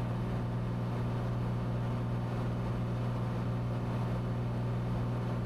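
Cessna 182T in flight: its six-cylinder Lycoming IO-540 engine and propeller give a steady, unchanging drone.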